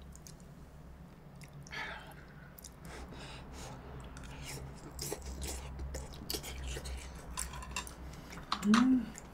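Close-up mouth sounds of chewing a large, hot chunk of pork from kimchi stew, with small wet clicks and breaths. Near the end comes a short hum from the eater, the loudest sound here.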